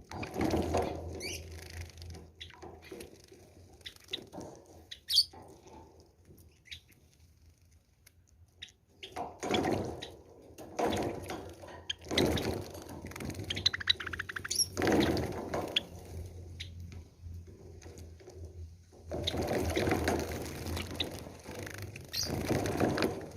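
Java sparrow bathing in water, splashing in repeated bursts of a second or two with pauses between, and a few short high chirps.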